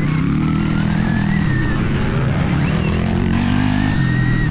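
Stark Varg electric motocross bike's motor whining, rising in pitch about a second in, dipping, then climbing again near the end as the throttle is worked, over a heavy low rumble of the ride.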